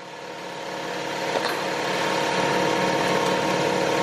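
A motor running steadily with a constant hum. It cuts in suddenly at the start and grows louder over the first two seconds.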